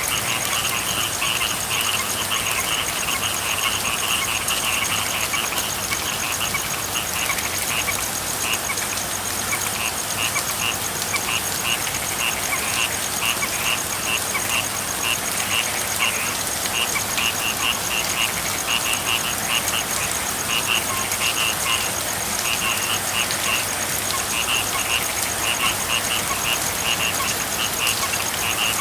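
Steady rain hiss with a frog chorus: short pulsed trilling calls repeat over and over without pause.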